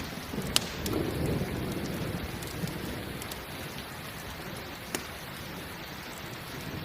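Steady rain falling, with a low rumble of thunder that fades over the first couple of seconds. Two sharp pops, like a crackling campfire, come about half a second in and again about five seconds in.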